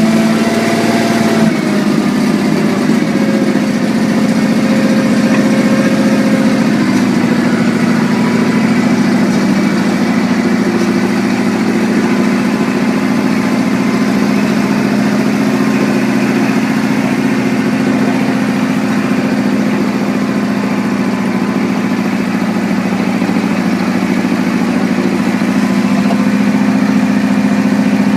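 Garden tractor's small gasoline engine idling after a cold start, having sat for about a week; its speed eases down over the first few seconds and then holds at a steady idle.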